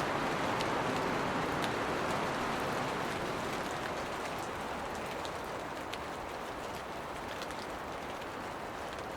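Steady rain shower: a dense, even hiss of rainfall with scattered single drops ticking through it. The hiss eases a little a few seconds in.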